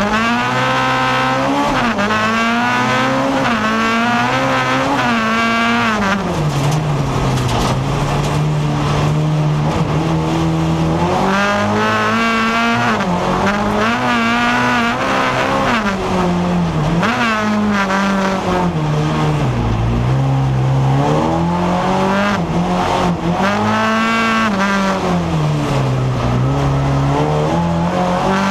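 Folk-race car's engine heard from inside the cabin, revving up and dropping back again and again as the driver accelerates, lifts and shifts around the track.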